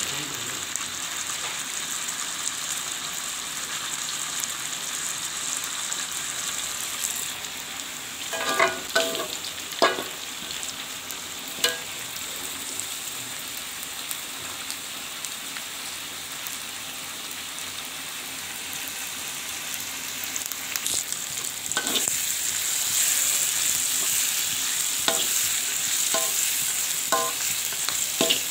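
Oil sizzling in a wok as sliced jengkol beans fry, with a metal spatula clinking and scraping against the wok a handful of times. The sizzle grows louder over the last quarter.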